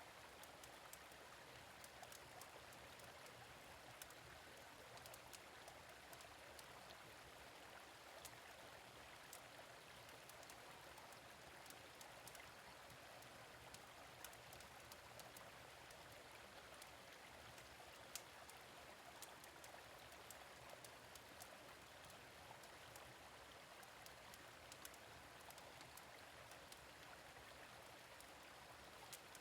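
Faint, steady running water of a gentle stream, with scattered sharp crackles from a wood fire. One louder crackle comes a little past halfway.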